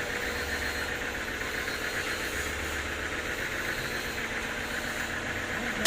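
Sawmill machinery running steadily with a low hum and a fast, even rattle. A single sharp knock comes right at the end.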